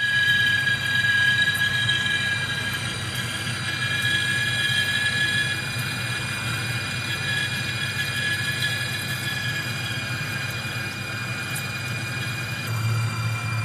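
Metal lathe running, a steady high whine over its low hum; the hum grows louder near the end.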